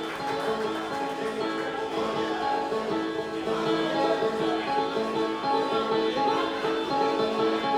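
Bluegrass band playing the instrumental opening of a song on picked acoustic string instruments, with no singing.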